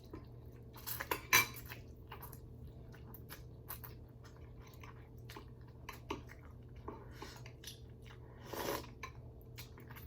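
Eating ramen noodle soup close to the microphone: chewing with small clicks of a utensil against the bowl, the sharpest about a second in.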